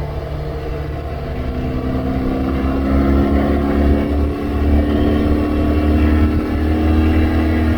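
BMW R1200GSA boxer-twin engine running under way, its pitch rising gradually as the bike accelerates, then holding fairly steady, over a heavy low rumble.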